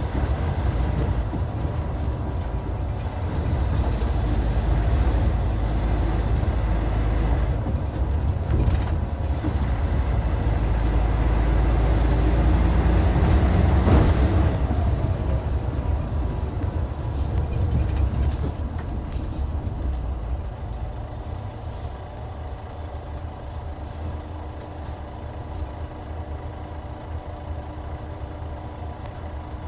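Hyundai D6CC Powertec 380 six-cylinder diesel of a Hyundai Universe coach running under load, with a short hiss of air about halfway through. After that the engine drops back and runs quieter and steadier.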